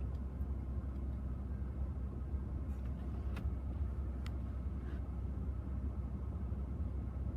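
Strong wind buffeting the microphone: a steady low rumble, with a few faint clicks near the middle.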